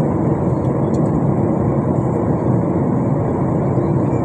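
Steady cabin noise inside a jet airliner: engine and airflow noise, heavy in the low end.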